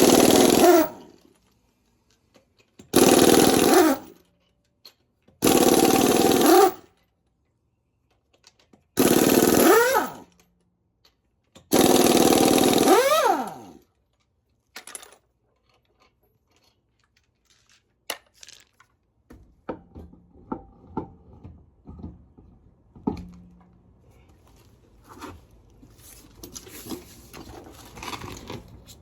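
Impact wrench with a 7/8-inch socket running in five bursts of about a second each, loosening a wheel's lug nuts; each burst winds down in pitch as the trigger is released. After that come light clinks and rattles of the loosened nuts and wheel being handled.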